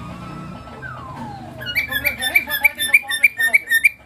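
Cockatiel whistling: a faint held note, then one long falling whistle, then a rapid run of sharp repeated chirps that stops just before the end.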